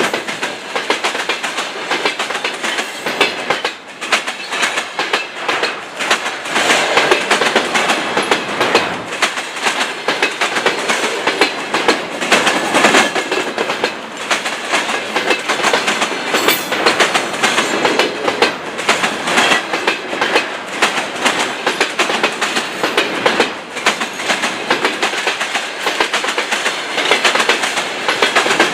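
Freight train wagons rolling past at speed, their wheels clattering over the rail joints in a continuous, rapid clickety-clack over a steady rumble of rolling noise.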